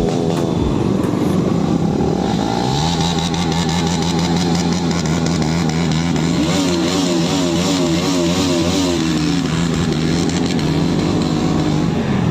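Motorcycle engine running on the move, settling into a steady drone about three seconds in, with a wavering higher tone over it for a few seconds in the middle.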